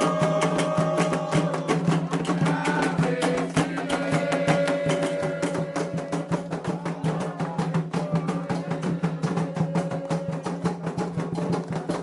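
Candomblé ritual drumming: fast, steady percussion with drums and a wood-block-like strike, under voices holding long notes of a chant.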